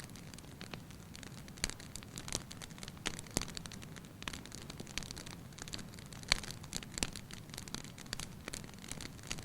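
Wood fire in a fireplace crackling: irregular sharp snaps and pops, a few louder ones, over a steady low hum of the burning.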